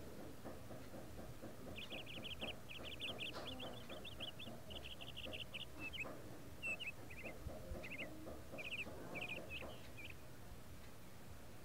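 Small bird chattering in quick, high rattling trills, starting about two seconds in and coming in short bursts until near the end. Beneath it, a faint rustle of tomato plant leaves being handled.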